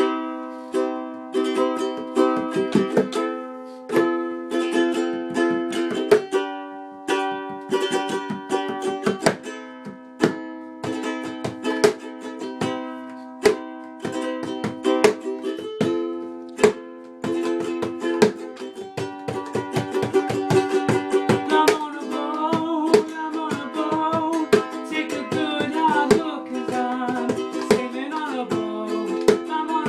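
Ukulele strumming a rhythmic chord accompaniment with sharp, regular strokes. About two-thirds of the way in, a wavering melodic line joins over the chords.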